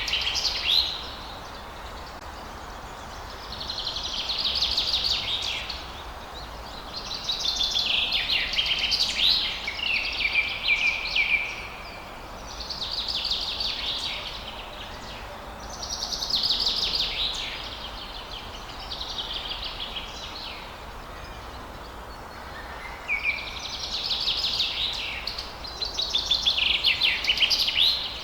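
A songbird singing in phrases of rapid high trills, one every few seconds with short pauses between, over a steady background hiss.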